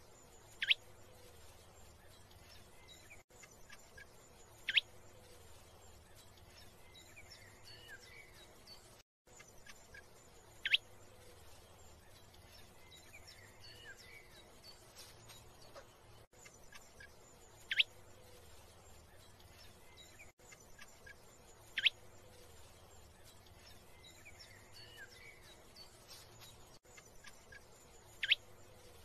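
Bird calls: six short, sharp calls spaced a few seconds apart, each falling quickly in pitch, with fainter chirps between them over a low background hiss.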